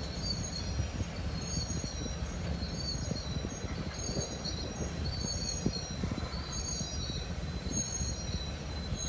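Freight train of autorack cars rolling past with a steady low rumble, and short high squeals from the wheels that come and go about once a second.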